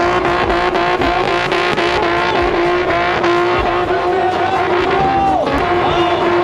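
Car doing a burnout: the engine is held at high revs with an even pulsing, while the spinning rear tires squeal in wavering tones.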